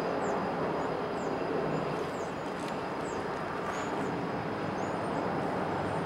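Loaded coal train with a BNSF diesel locomotive rolling past: a steady rumble of wheels and hopper cars on the rails, with a few short bird chirps above it.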